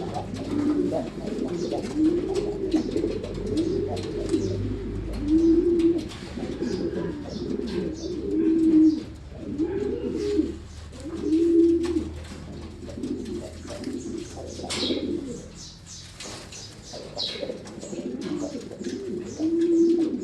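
Racing pigeons cooing over and over, a low rolling coo about every second and a half, with a brief lull about three-quarters of the way through.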